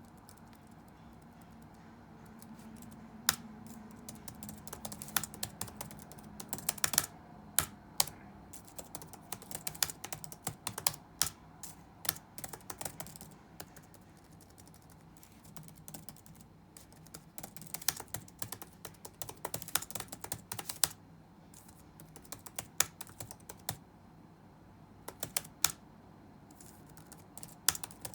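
Computer keyboard being typed on in uneven bursts of keystrokes with short pauses, starting about three seconds in, over faint background noise.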